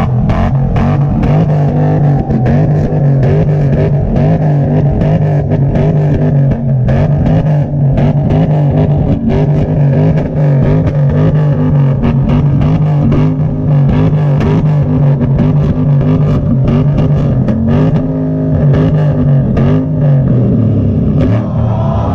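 Ford Mustang engine held at high revs on a two-step launch limiter, steady in pitch, with rapid crackling pops from the exhaust as it backfires flames.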